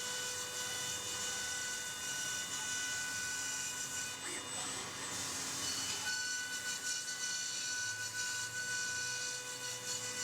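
CNC milling machine cutting polyethylene foam: a steady spindle whine made of several fixed tones over a high cutting hiss. The tone shifts briefly about four seconds in, then settles again.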